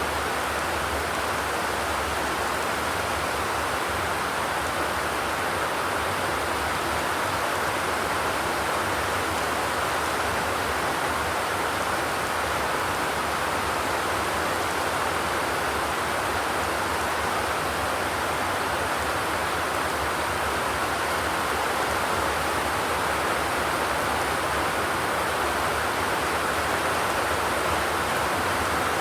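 Steady rain on a zinc (corrugated metal) roof, an even hiss without distinct drops or thunder.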